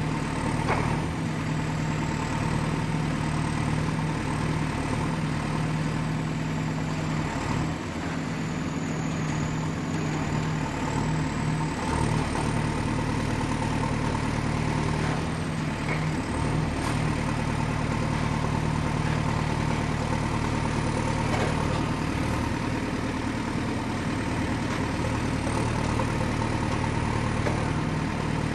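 Excavator's diesel engine running steadily, with a thin high whine that drifts slowly up and down in pitch.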